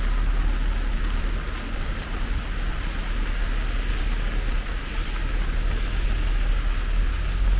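Steady rain falling, an even hiss, over a constant low rumble.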